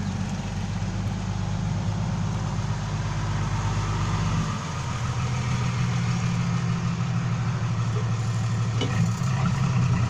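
Heavy vehicle's diesel engine idling steadily, its note shifting slightly about four and a half seconds in.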